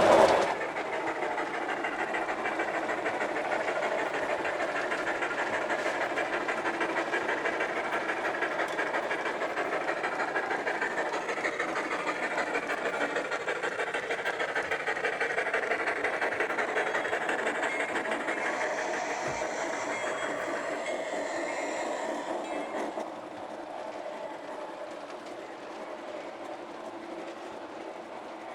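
Model train running on the layout's track, a steady fast clatter of wheels and running gear. It drops noticeably quieter about 23 seconds in and carries on at the lower level.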